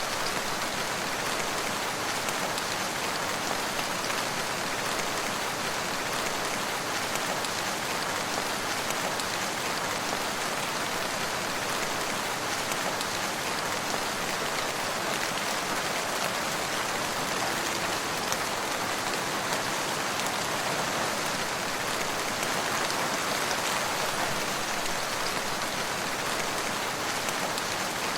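Steady rain falling on a surface, an even hiss of many drops with no breaks or thunder.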